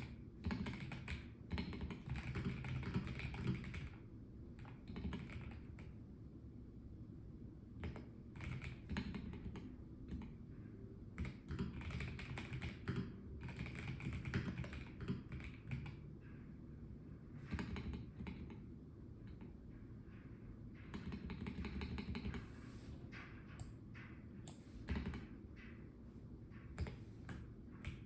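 Typing on a Melgeek Mojo84 Plastic mechanical keyboard: runs of quick key clicks broken by short pauses.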